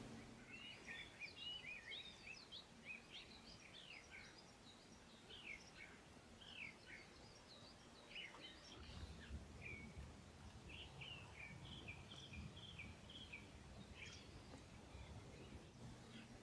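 Faint birdsong: many short chirps and quick rising and falling notes from small songbirds, scattered through the whole stretch.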